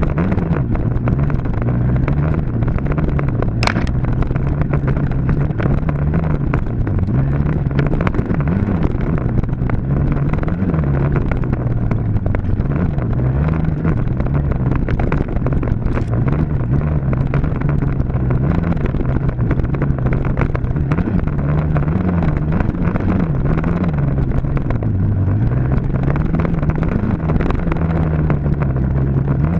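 Dirt bike engine running hard and continuously, its pitch climbing and dropping every second or two as it revs up and eases off.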